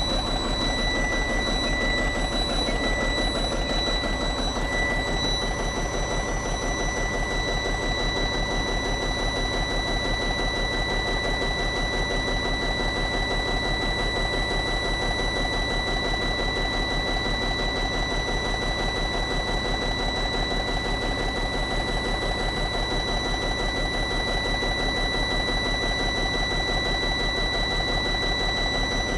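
Caterpillar diesel engine of a Freightliner FL70 truck idling steadily with an even, fast beat, a steady high whine running over it.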